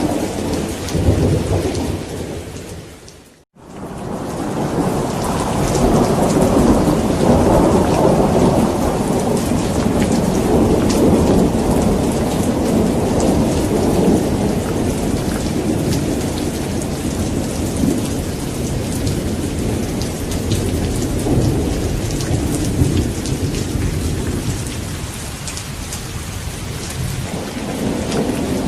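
Thunderstorm: steady heavy rain with continuous low rolling thunder. About three and a half seconds in, the sound fades out to silence for a moment, then fades back in.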